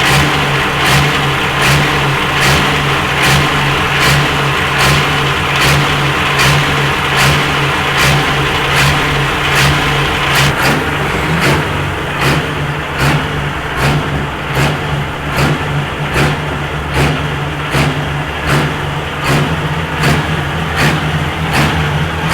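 Diesel pulling tractor engine running at a steady speed, loud and without rising in pitch, with a regular sharp ticking about one and a half times a second.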